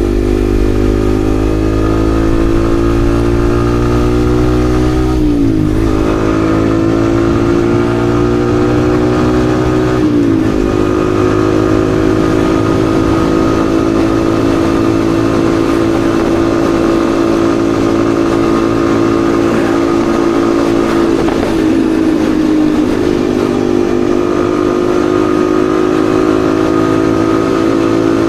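Yamaha XSR155's single-cylinder four-stroke engine under way, its pitch climbing and then dropping sharply at two upshifts in the first ten seconds, then running at a steady cruising speed with a brief dip and pick-up near the end.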